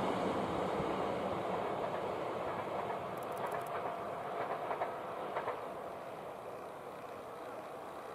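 Train running past and moving away, its noise fading steadily, with a few sharp clicks of wheels over rail joints about halfway through.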